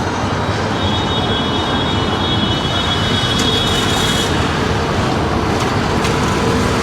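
Steady street traffic noise, with a high thin tone held for about three seconds near the start.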